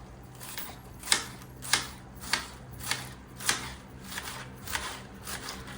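A run of short, sharp strokes, about nine of them at roughly one every half second, over a faint steady hum.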